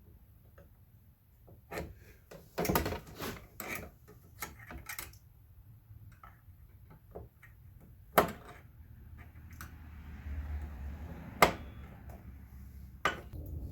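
Small metal parts and wire being handled on a workbench: a cluster of clicks and knocks about two to five seconds in, then three sharp single clicks a few seconds apart.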